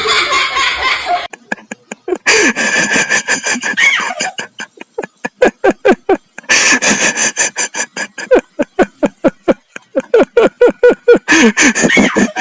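A person laughing hard in long runs of quick, repeated bursts, with a few short breaks.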